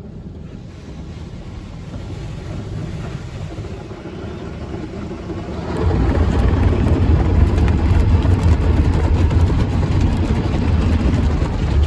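Automatic car wash tunnel equipment working on a car: a steady rush and rumble of water and wash machinery that builds and then gets much louder about six seconds in.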